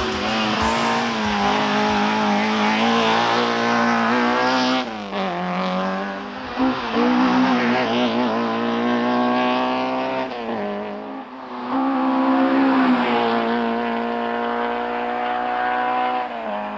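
Peugeot rally car engine revving hard at full throttle, its pitch climbing through each gear and dropping sharply at each gear change, several times over.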